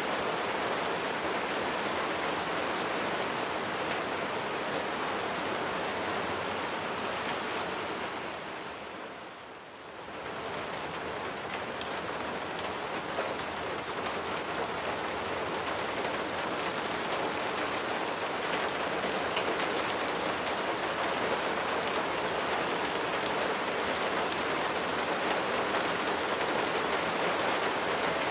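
Steady rain falling, a dense patter of drops that briefly fades down about a third of the way in and swells back up.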